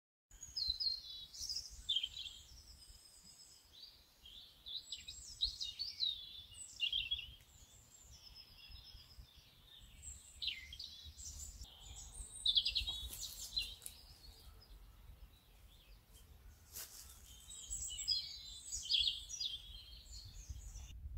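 Songbirds singing: many quick chirps and warbling phrases that overlap and keep coming, over a low rumble.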